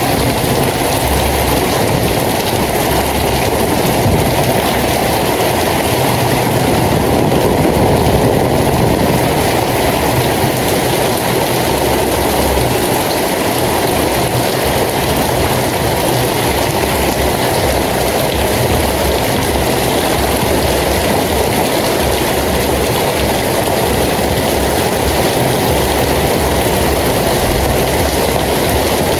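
Steady heavy rain, a dense even hiss with an uneven low rumble underneath.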